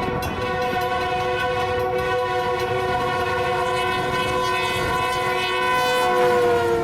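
A locomotive's multi-chime air horn sounding continuously as a chord of several notes over the rumble of a moving train. Near the end it grows louder and the whole chord drops slightly in pitch as the locomotive passes.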